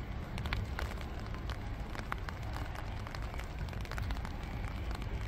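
Spring rain falling on a shallow pond: a steady patter with many separate drops ticking on the water at irregular times, over a steady low rumble.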